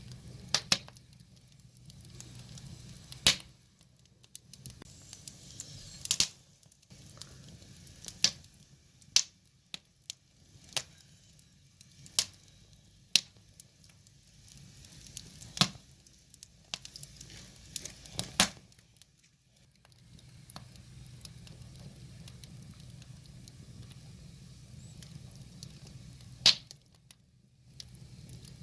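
Wood fire crackling: burning logs giving off sharp, irregular pops every second or so, a few of them loud, over a faint low rush of flame.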